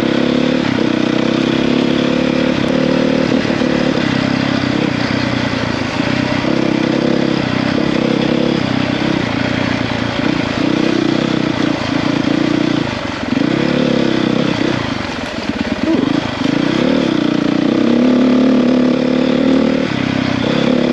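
A 450cc dirt bike's four-stroke single-cylinder engine running while being ridden, the revs dipping and climbing several times as the throttle is rolled off and on.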